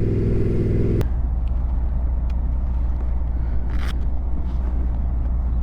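Motorcycle engine running at low speed, its note dropping to a lower, steadier hum about a second in with a click as it settles.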